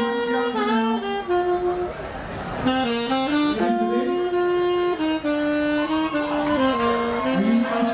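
Instrumental music: a saxophone plays a melody of held notes joined by slides, with a second line moving alongside it.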